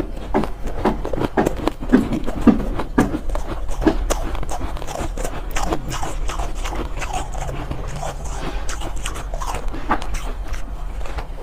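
Close-up chewing and crunching of soft, powdery ice, a quick run of crunches that is strongest in the first few seconds and softer after, over a low steady hum.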